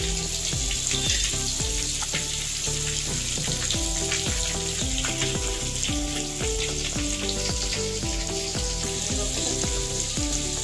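Stuffed bitter gourds sizzling steadily as they shallow-fry in hot oil in a kadhai, a continuous hiss of frying. Background music with changing low notes plays under it.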